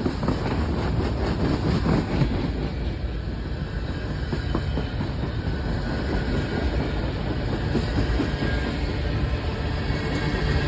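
CSX manifest freight train's cars rolling past: a steady rumble of steel wheels on rail, with clickety-clack over the rail joints.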